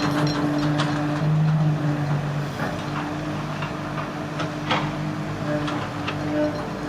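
Excavator's diesel engine running steadily, with scattered metallic clanks and knocks over it, the loudest a little under five seconds in.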